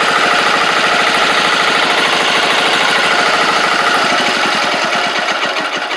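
10 HP Chinese Yanmar-clone single-cylinder diesel engine running with a fast, even knock of firing pulses, beginning to slow and fade near the end as it winds down.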